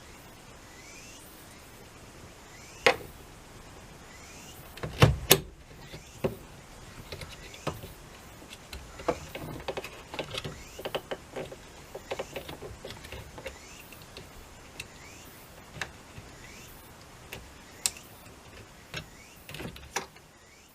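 Hand work on plastic interior parts of a van's dashboard: a series of sharp clicks and knocks, the loudest about three and five seconds in, followed by many lighter, irregular clicks.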